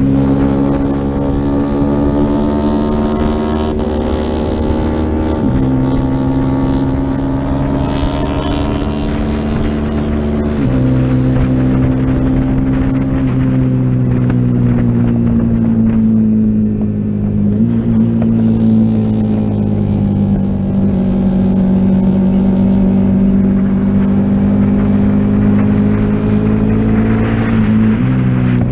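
Yamaha R25's parallel-twin engine running hard at high revs on track, heard onboard. It holds a steady note with a few sudden steps in pitch, over wind rush.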